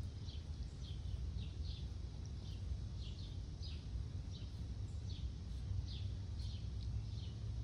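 Birds chirping: short, high, falling chirps about twice a second over a steady low rumble.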